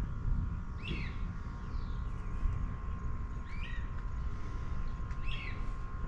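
A bird outdoors at night repeating a short call three times, over a steady high drone and a constant low rumble.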